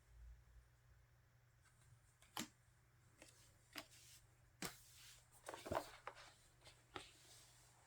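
Faint handling of album photocards and paper inserts: a few light clicks and a short rustle in a quiet small room.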